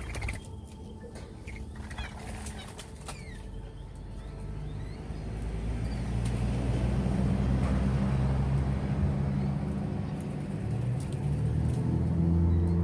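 Birds at a feeder: wing flaps and a few short chirping calls in the first few seconds, under a low, steady music drone that swells from about five seconds in.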